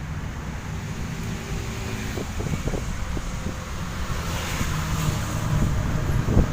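Wind buffeting the microphone, a steady low rumble, with several faint knocks and one louder thump near the end.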